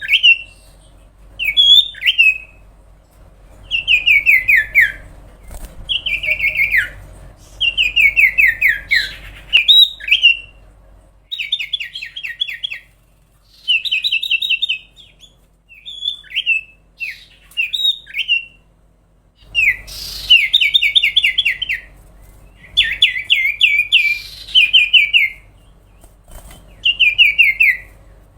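Common iora (cipow) singing: phrase after phrase of quick notes sliding downward, each phrase about a second long, with short pauses between them.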